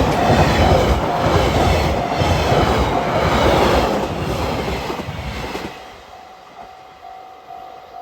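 Train passing over a level crossing, its wheels clacking regularly over the rail joints. The train noise stops fairly suddenly about six seconds in, leaving the crossing's warning bell ringing in its steady repeating clang.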